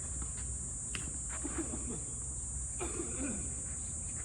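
A few sharp knocks of a tennis ball struck by rackets, with faint distant voices, over a steady high-pitched insect drone.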